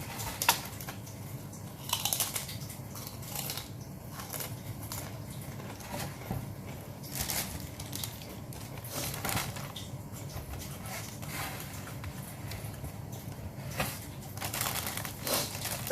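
A person eating grilled chicken close to the microphone: biting and chewing, heard as a steady run of irregular short mouth clicks and crunches, with a sharp one about half a second in.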